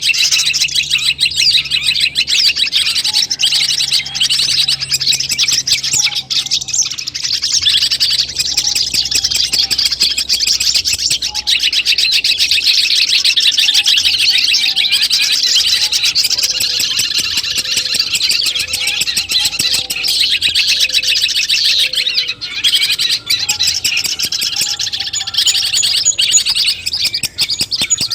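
Long-tailed shrike (cendet) singing a continuous, rapid, chattering song, with short lower whistled notes repeating through much of it.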